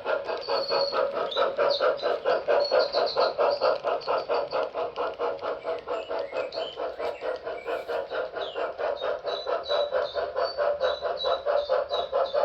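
Sound decoder of an HO scale Reading consolidation model steam locomotive chuffing in a rapid, even beat as it runs, with short high chirps over it.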